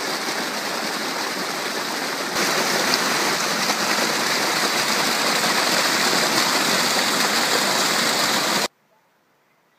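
Stream water rushing steadily, turning louder a couple of seconds in, then cutting off abruptly near the end.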